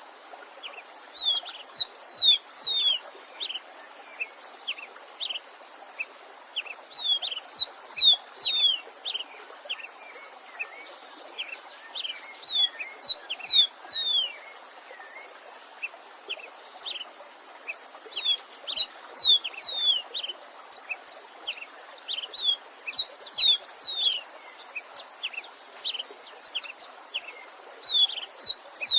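A songbird repeating a short song phrase about every five to six seconds, each phrase a quick run of high falling notes, with single short chirps in between, over a steady hiss of a running stream.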